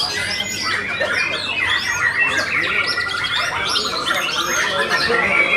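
White-rumped shama (murai batu) singing: a dense, unbroken run of varied whistles and quick chirps, sliding up and down in pitch.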